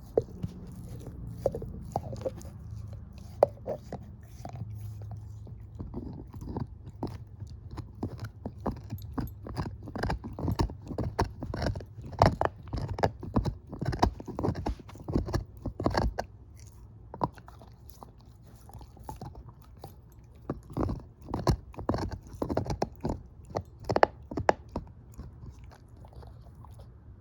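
Shepherd-mix dog chewing a bone: loud crunching and gnawing made of quick sharp cracks in two long spells, with a brief lull in the middle.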